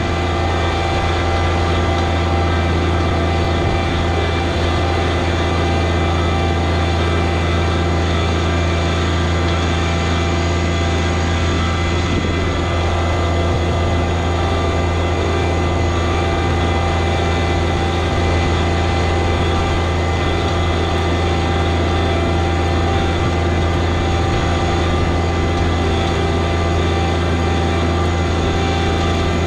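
John Deere 1023e compact tractor's diesel engine running at a steady speed under load while towing. There is no change in pitch or level.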